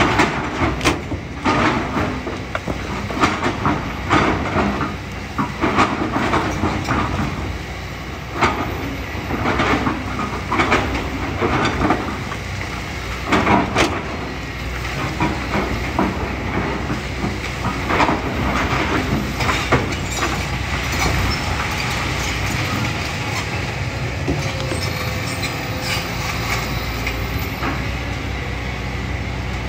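Kobelco SK200 excavator working: the diesel engine runs steadily under load while rock and gravel clatter and knock repeatedly in the first half, settling to a smoother engine and hydraulic sound in the second half.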